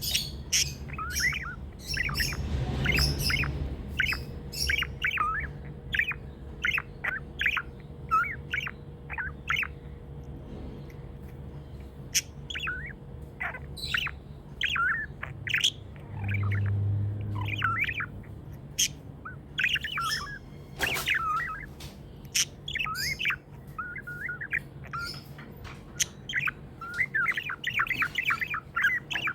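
Pet budgerigars chirping and chattering: a continuous run of short, quick chirps with occasional harsher squawks.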